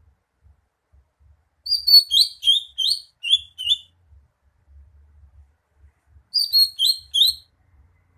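Cucak hijau (greater green leafbird) singing: two phrases of quick, sharp chirping notes, a longer one starting about two seconds in and a shorter one near the end.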